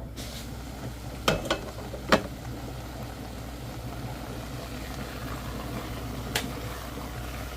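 Pot of tomatoes boiling on the stove, a steady bubbling hiss. Three sharp clinks of kitchenware: two in the first couple of seconds and one near the end.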